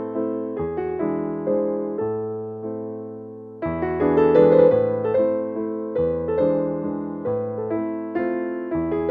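Background piano music: soft chords and a gentle melody, each note decaying after it is struck, with a held chord that fades away about halfway through before the playing starts again.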